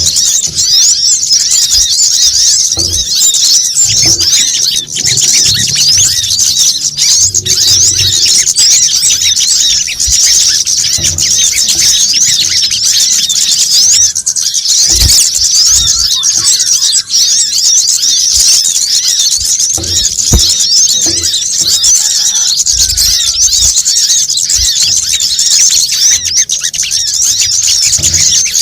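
Bird-lure recording of small songbirds of the kemade, sogon and coconut sunbird (kolibri kelapa) kind. Many birds give rapid, high-pitched chirping and twittering, dense and unbroken, in the agitated 'ribut' style used to draw birds in.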